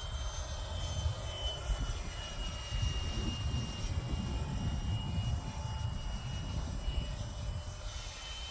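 High, steady whine of the 64 mm five-blade electric ducted fan on a Freewing MiG-15 RC jet in flight, drifting slightly in pitch as it passes. Heavy gusty wind buffeting on the microphone is the loudest sound.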